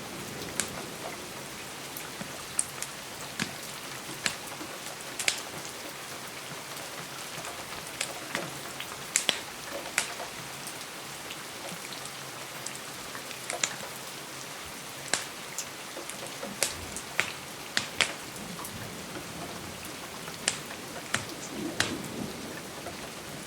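Steady rain pattering against a window, with a wood fire crackling: sharp pops at irregular intervals over the even hiss of the rain.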